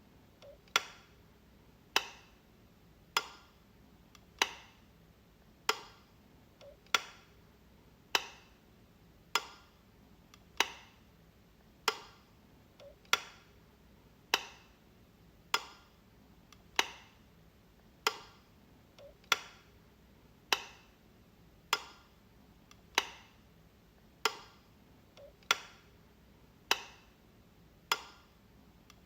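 Light switch clicking over and over, one sharp click a little under every second and a quarter, with a faint small tick just before about every sixth click.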